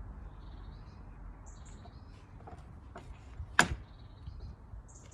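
Short, high bird chirps over a faint steady background, with one sharp click about three and a half seconds in. No engine is running.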